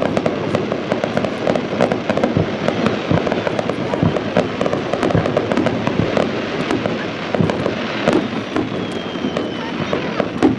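Fireworks display: aerial shells bursting in a dense, unbroken barrage of overlapping bangs and crackling.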